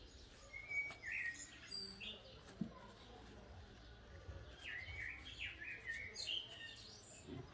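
Faint bird chirps: short high calls scattered through, coming thickest in the second half.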